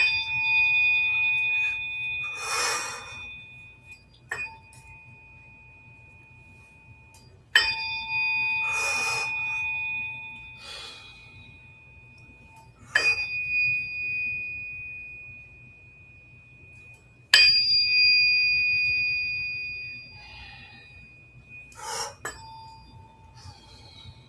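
A tuning fork struck six times, roughly every four to five seconds. Each strike gives a clear, high ringing tone that fades over a few seconds. Brief rustling sounds fall between some of the strikes.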